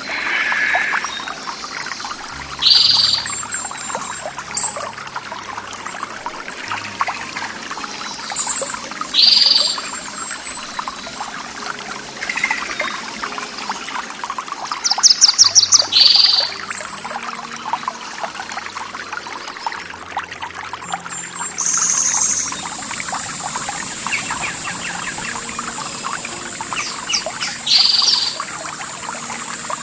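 Running water trickling and pouring steadily, with birds calling over it: one short call repeats every six or seven seconds and a rapid trill comes about halfway. A thin, steady high tone joins about two-thirds of the way in.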